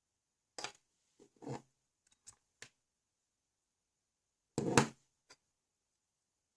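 Small clicks and rattles of LEGO plastic parts being handled: several light ticks over the first three seconds, then a louder clatter of a few clicks a little before five seconds in, and one last tick.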